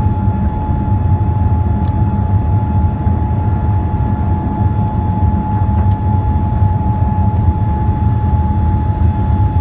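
Airliner engines and airflow heard inside the cabin after takeoff: a steady, loud low rumble with a constant whining tone over it.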